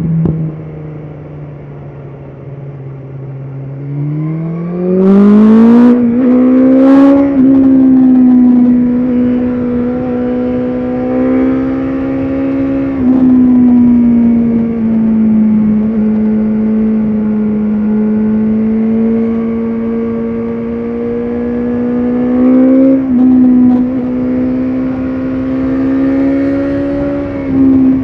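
BMW S1000RR inline-four engine under way: low and steady for the first few seconds, then rising in pitch as the bike accelerates, and from there running at a steady pitch with a few small dips and lifts in engine speed.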